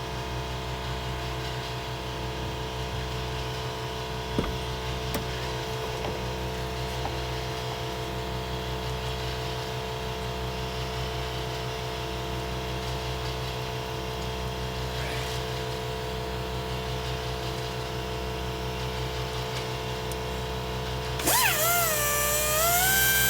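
A steady mechanical hum, then about 21 seconds in a power tool starts up louder with a wavering, rising whine.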